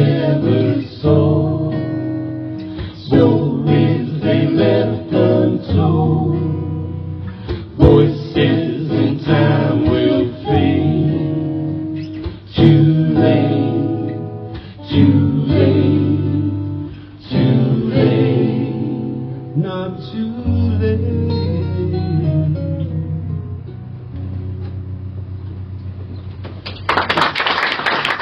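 Acoustic guitar playing the closing instrumental bars of a folk song, the chords spacing out and ringing on as it winds down. Audience applause breaks out near the end.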